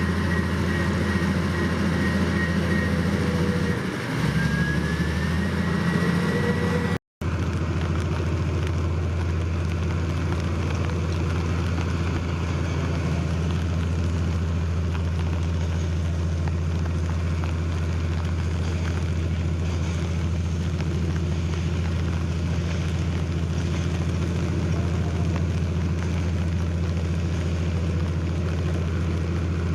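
Heavy diesel engine of earthmoving machinery running steadily with a low hum, its pitch rising briefly about five seconds in. The sound cuts out for an instant about seven seconds in, then the same steady running carries on.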